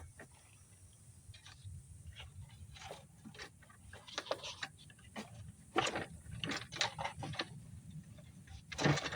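Irregular clicks and light knocks of hands working on the engine as an inline fuel filter is fitted into the fuel line, over a faint low steady rumble.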